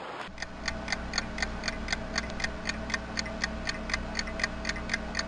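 Clock ticking evenly and quickly, about four ticks a second, over a faint steady hum.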